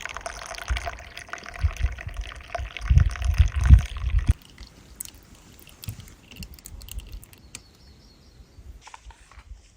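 Liquid pouring for about four seconds, with low thumps near the end, then it stops abruptly and gives way to a quiet background with faint ticks.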